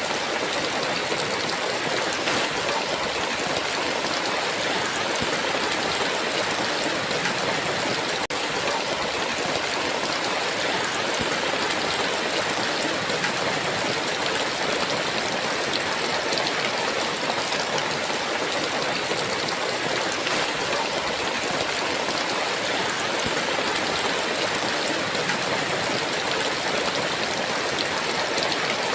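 Heavy rain falling in a steady downpour, an even hiss of water, with a momentary dropout about eight seconds in.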